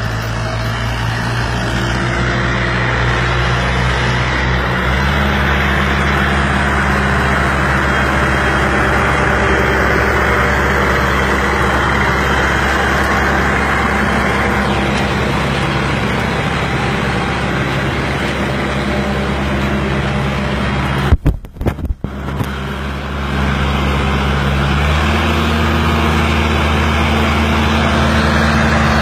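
Fiat 480 tractor's diesel engine running steadily, its speed stepping up about five seconds in and again near the end. A brief burst of knocks and dropouts breaks it about three-quarters of the way through.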